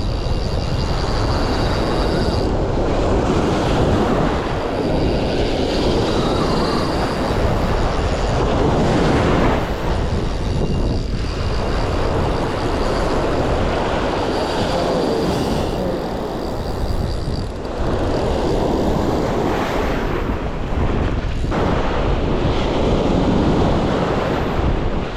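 Strong wind buffeting the microphone on a beach, a steady loud rushing rumble with breaking surf mixed in.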